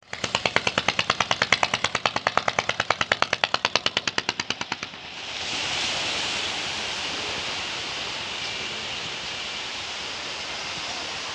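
A small engine runs with a rapid, even exhaust beat of about ten pulses a second. About five seconds in, it gives way abruptly to a steady rushing noise.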